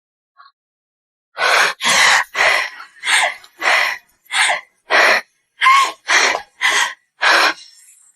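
A run of loud, breathy human gasps, about twelve of them at roughly two a second, beginning a little over a second in.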